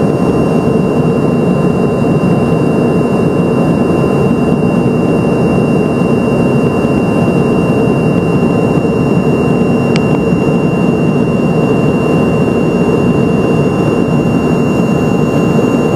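Steady cabin roar of an Embraer ERJ-145 in flight, from its two rear-mounted Rolls-Royce AE3007 turbofans, with a thin steady whine over the low rumble.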